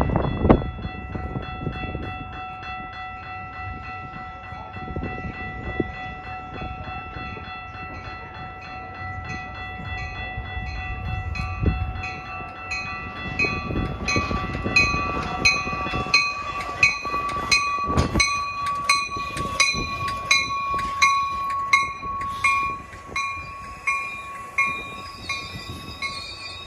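Metra commuter train arriving at a station, cab car leading, with a bell ringing steadily at about two strikes a second that grows louder as the train draws in. A steady high squeal joins about two-thirds in as the train slows past the platform.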